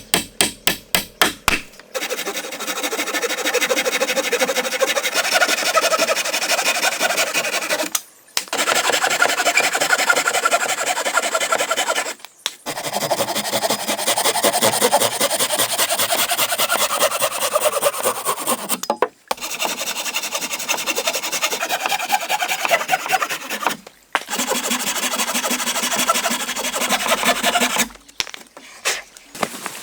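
A hammer strikes rapidly several times, then a tool rasps and saws through wood in long continuous stretches, broken by several abrupt short gaps.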